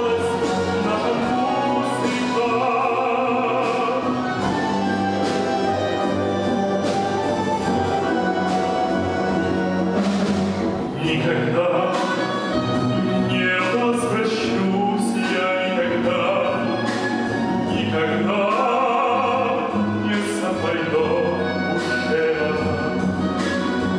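Live orchestra playing, with a singer performing in an operatic style over the accompaniment.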